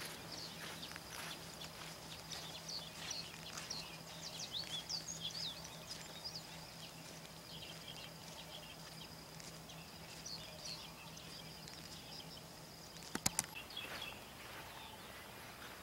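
Small birds chirping and twittering in the background, with a faint steady high-pitched whine and a low hum that stops about 13 seconds in. A couple of sharp clicks come just as the hum stops.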